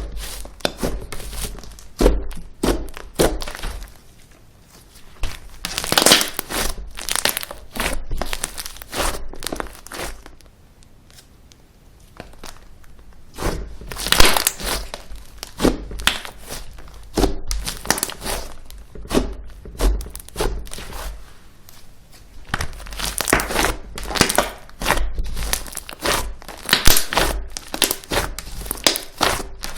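Slime being squeezed, stretched and poked by hand: dense runs of sticky crackles and clicks, broken by two short quieter pauses.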